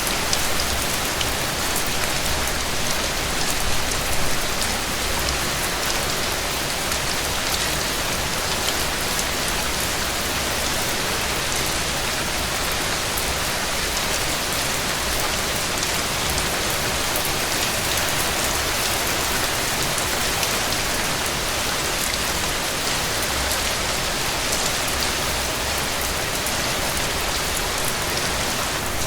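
Heavy rain falling steadily: a constant hiss with scattered sharp ticks of drops.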